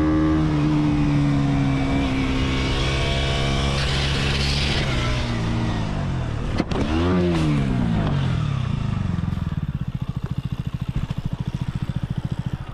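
KTM motorcycle engine running at steady, slowly falling revs. About six and a half seconds in the sound breaks off for a moment, the revs rise and fall once, and then the engine drops to a lower, quieter, rapidly pulsing chug.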